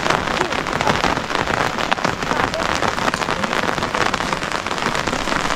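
Steady rain falling, a dense even hiss made of countless individual drop strikes.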